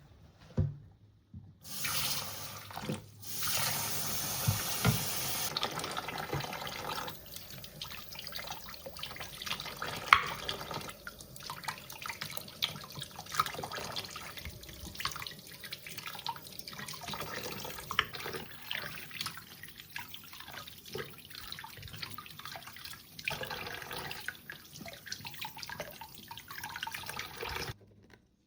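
Water from a kitchen tap running into a sink, strongest for the first few seconds, with scattered knocks and clinks of things being handled under the stream.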